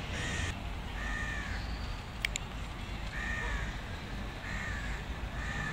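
Birds calling: a short call, rising and falling in pitch, repeated about five times. A sharp click a little after two seconds in, with a steady low rumble underneath.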